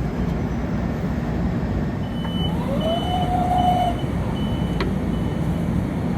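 Steady low rumble of a train at the railway, with a run of evenly spaced short high beeps starting about two seconds in, and a single tone that slides up and holds for about a second.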